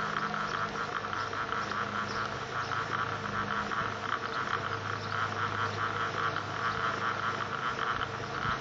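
Samsung FMA702CY compressor motor energized with a shorted winding, giving a steady electrical hum with a fast crackling buzz over it as the winding overheats and burns.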